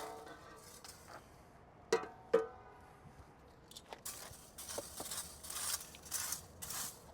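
Litter being picked up and swept off pavement. Two sharp clinks with a short ring come about two seconds in, and from about four seconds in there is repeated scraping and brushing, like debris swept into a dustpan.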